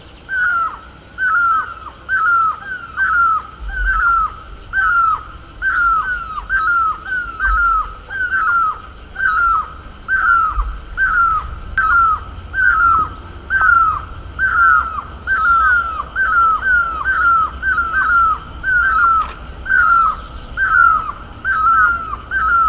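A bird calling over and over: a loud, short note that falls in pitch, repeated about once or twice a second, sometimes in quick pairs.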